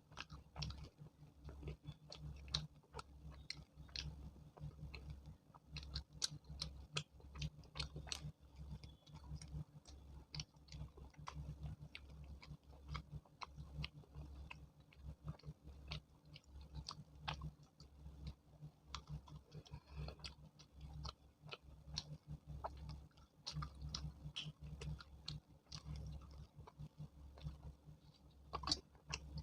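Close-up chewing and eating sounds: many small wet mouth clicks and bites throughout, over a steady low hum.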